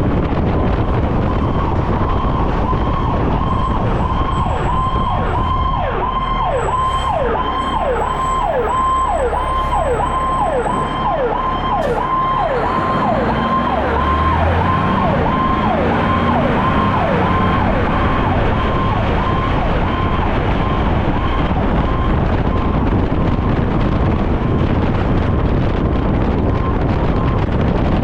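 Fire engine siren on the yelp setting, a fast repeating up-and-down wail about two cycles a second, over the truck's steady engine and road rumble. The siren fades away in the last few seconds, leaving only the vehicle noise.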